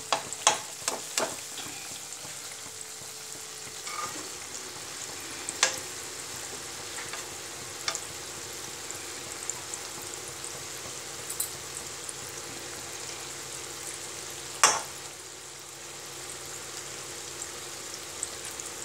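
Gulgule, wheat-flour and jaggery fritters, sizzling steadily in hot oil in a kadhai, with a steel slotted spoon knocking against the pan now and then: a few clinks in the first second, single ones later, and the loudest about three-quarters of the way in.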